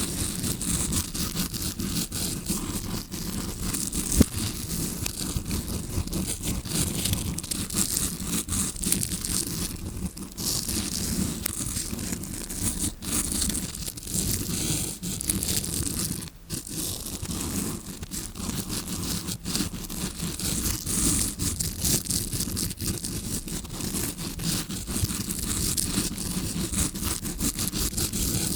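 Tawashi scrubbing brush scratched and rubbed close against a recorder's microphone: continuous rapid bristly scratching that imitates ear cleaning heard from inside the ear. A sharp click about four seconds in, and a brief lull a little past the middle.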